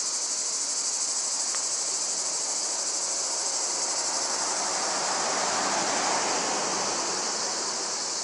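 Steady, high-pitched chorus of summer insects, with a rushing noise beneath it that swells about two-thirds of the way through.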